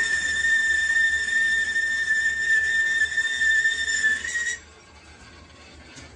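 Lathe turning tool squealing against a spinning workpiece: a steady high-pitched whistle-like tone that cuts off suddenly about four and a half seconds in.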